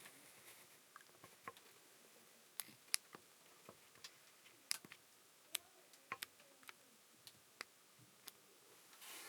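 Faint, irregular clicks and light taps, about a dozen, scattered over a quiet room: small parts and packaging of a paper creasing machine being handled.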